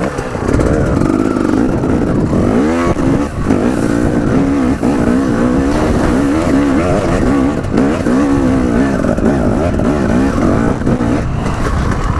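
Dirt bike engine revving up and down over and over as it climbs rough, steep ground off the trail.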